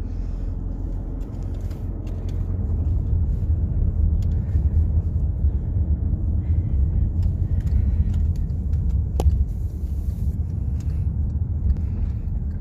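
Steady low rumble of a car driving, heard from inside the cabin: road and engine noise, swelling slightly a couple of seconds in, with a faint click about nine seconds in.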